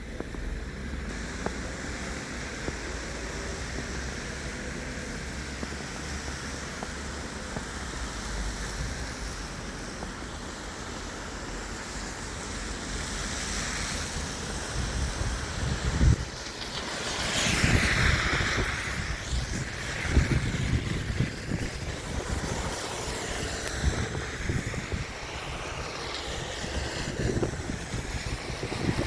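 Wind buffeting the microphone over steady outdoor noise, rougher and gustier in the second half, with a louder whooshing swell a little past the middle.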